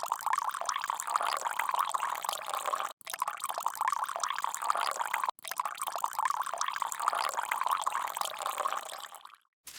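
Liquid being poured into a vessel, a steady splashing pour that stops abruptly twice and starts again.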